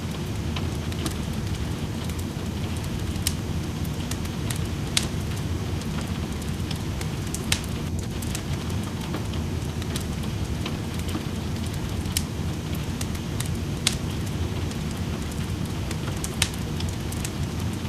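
Steady rain heard from indoors, an even deep hiss, with a wood fire in a fireplace crackling: sharp single pops every second or two.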